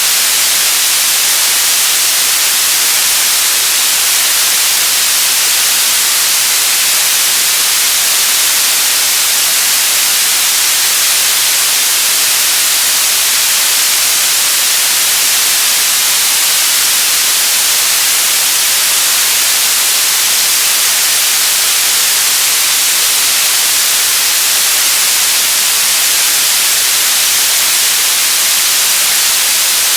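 White noise sound effect: a loud, steady hiss, heaviest in the high end, with no change in level or character.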